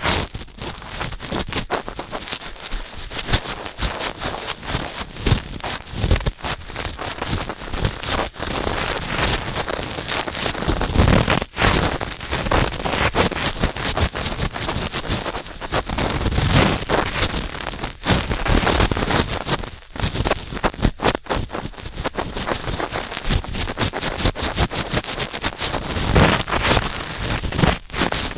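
Cotton swabs rubbing and scraping in a binaural microphone's ear: close, dense scratching and rustling with many small crackles, pausing briefly now and then.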